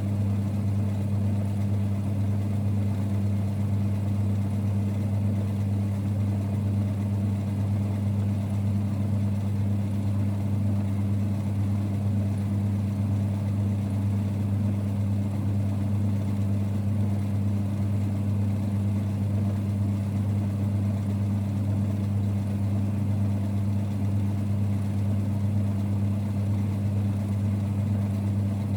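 1946 Boxford lathe running, a steady low rumble that holds at one even pitch throughout.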